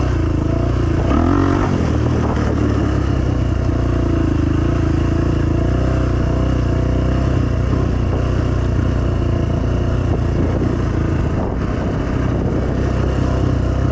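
Dirt bike engine running steadily under a light, even throttle as the bike is ridden.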